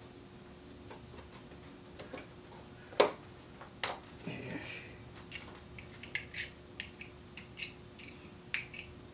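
Scattered small clicks and taps of small metal parts and tools being handled and worked, with one sharper click about three seconds in and a quicker run of clicks near the end, over a faint steady hum.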